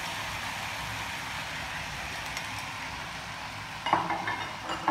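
Sliced tomatoes sizzling steadily in hot oil in a frying pan, just added with ginger. Near the end there are a couple of short sharp clinks.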